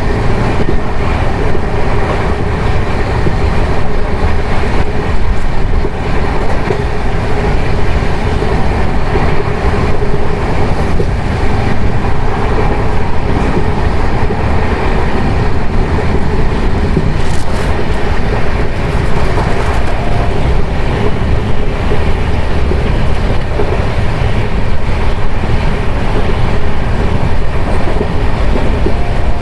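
Jan Shatabdi Express passenger train running along the track: a loud, steady rumble of wheels on rails with a constant hum.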